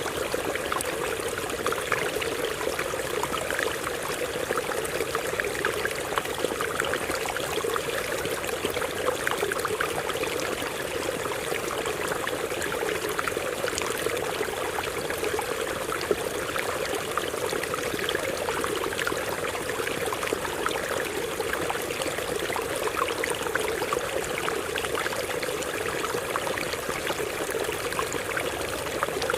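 A stream running and splashing over rocks, a steady rushing with many small splashes and gurgles.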